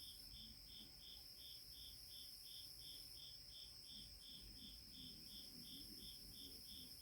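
Faint, steady cricket chirping, about three short high chirps a second, over a faint steady high whine.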